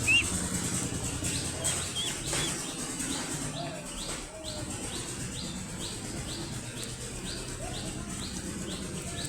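Ducklings peeping: a few arched chirps at the start, then a steady run of short, falling peeps, about two a second.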